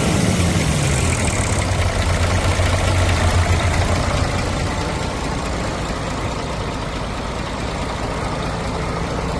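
Used car engine running on test: it comes back down from a rev right at the start, then idles steadily, its low hum dropping a little in level about four seconds in.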